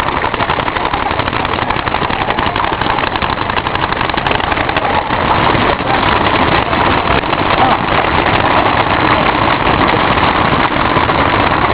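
Many paintball markers firing at once in a dense, continuous crackle of shots, growing a little louder about six seconds in.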